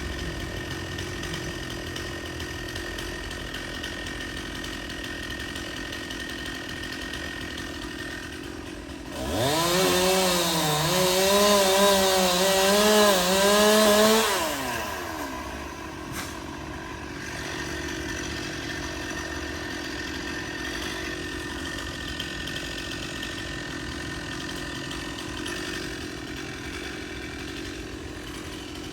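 Stihl two-stroke chainsaw idling, then revved to full throttle about a third of the way in. It stays high for about five seconds, its pitch wavering, then drops back to idle.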